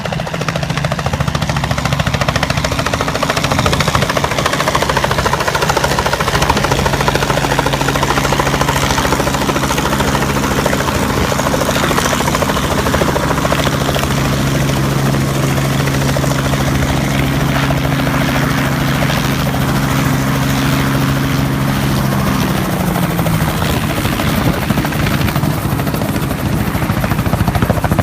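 Helicopter running loudly with steady rotor and engine noise; a steady low hum within it slides down in pitch and drops out about three-quarters of the way through.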